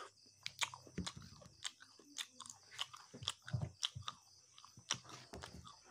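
A person chewing a mouthful of pork curry and rice eaten by hand, a run of irregular short crunches and mouth smacks.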